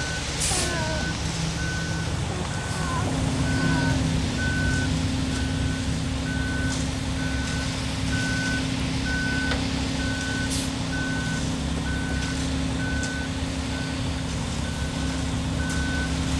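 Concrete mixer truck's backup alarm beeping about once a second over its diesel engine running, with a steady low hum joining in about three seconds in.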